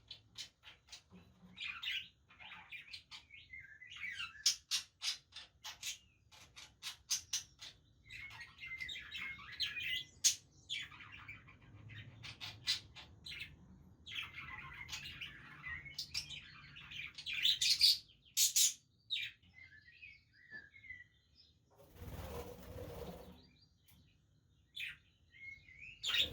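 Budgerigars chattering: a busy, warbling stream of chirps and rapid clicking calls from several birds. A short rush of noise breaks in near the end.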